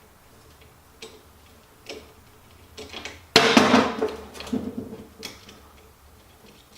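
Light metallic clicks and taps as the switch assembly is worked loose from a vintage Milwaukee drill's aluminium body. About three seconds in comes a sudden loud clatter, then a scatter of knocks over the next two seconds.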